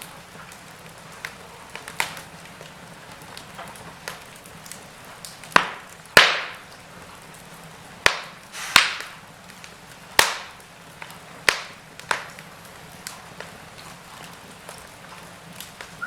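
Wood fire in a fireplace crackling: a steady low hiss broken by irregular sharp pops, a few of them much louder than the rest, the loudest about six seconds in.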